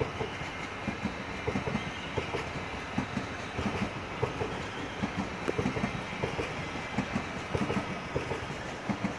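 ICE high-speed train rolling slowly past, its wheels knocking irregularly over rail joints and points, several knocks a second, over a steady rumble.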